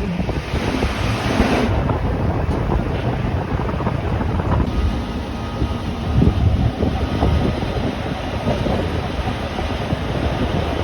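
Rhaetian Railway regional train running along the Bernina line: a steady low rumble of wheels on rails mixed with wind noise. A brighter hiss sits over it for the first couple of seconds and then cuts off.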